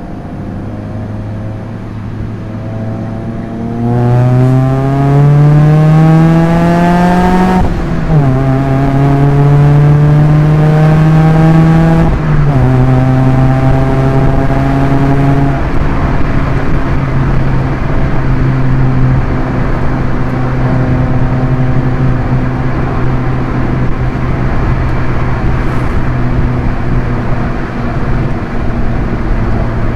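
Proton Inspira 1.8 manual's four-cylinder engine accelerating hard through the gears. It runs steadily, then about four seconds in it revs up with a rising pitch. It upshifts near eight seconds and climbs again, upshifts again around twelve seconds, then settles into a steady high-speed run.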